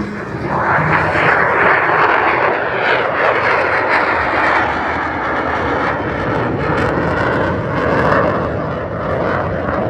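F-35 Lightning II fighter jet flying past with its engine noise loud and sustained. The noise builds about half a second in and stays loud.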